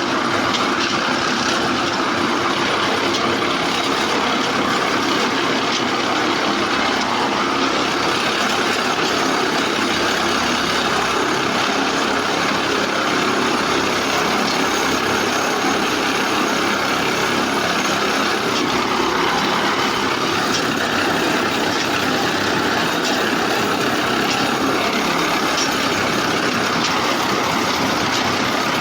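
Railway track maintenance machine (PCTM) running, giving a steady, unbroken mechanical noise.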